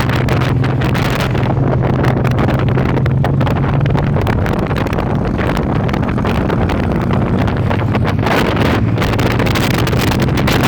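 Motorcycle engine running at a steady low hum under heavy wind buffeting on the microphone while riding. The engine hum fades out about four seconds in and comes back near the end.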